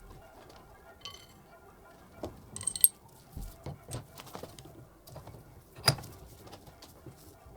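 Small hard objects, likely metal parts, being handled: scattered clicks and knocks, with a sharp ringing clink just under three seconds in and another knock about six seconds in.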